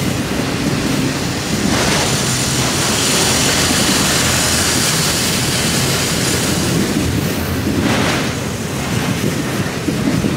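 Freight train of autorack cars rolling past at close range: a steady noise of steel wheels on the rails over a low rumble, with the hiss swelling twice.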